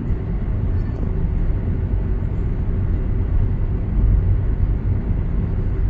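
Steady low rumble inside a moving passenger railcar, with the wheels running on the rails and a faint steady hum.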